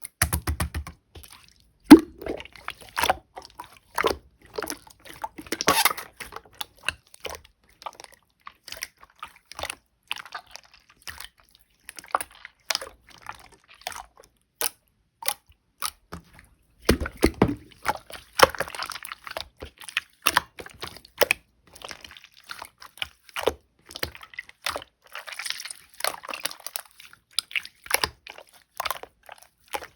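White chewy slime being pressed, poked and stretched by hand, making a continual run of sticky clicks, pops and squishes, with busier, louder stretches about two seconds in and again around seventeen seconds in.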